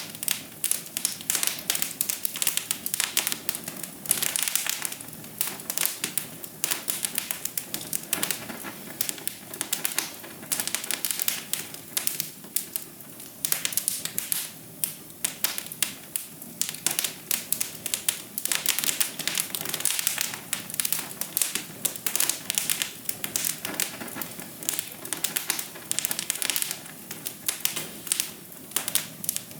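Fire in a fireplace crackling: dense, irregular snaps and pops over a soft steady hiss.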